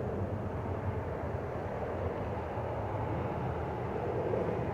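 Steady jet airliner engine noise from the airfield, an even rumble without clear changes.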